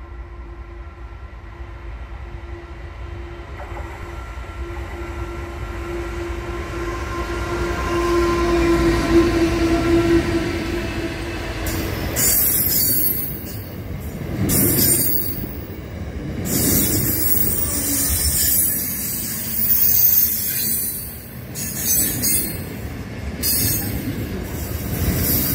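Pacific National diesel freight train approaching: a steady locomotive hum grows louder for about twelve seconds. The wagons then roll past with a loud rumble and high-pitched wheel noise that swells and fades every couple of seconds.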